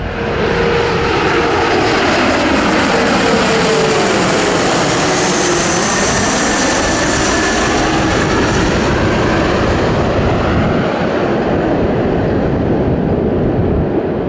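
Airplane passing close by, its engine sound loudest about five to seven seconds in, with a tone that drops in pitch as it goes past.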